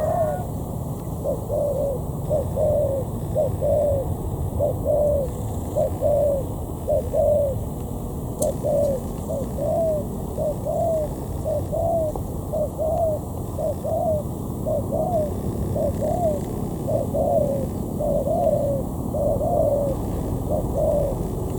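Spotted dove cooing: an unbroken run of short, low coos, about two a second, over a steady low rumble. There is a single sharp click about eight seconds in.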